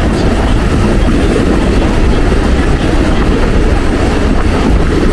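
Mumbai suburban local train running, a steady loud rumble of wheels and carriage on the rails.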